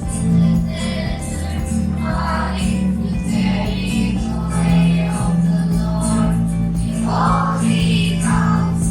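Children's choir singing a praise-and-worship song over steady instrumental backing with held bass notes.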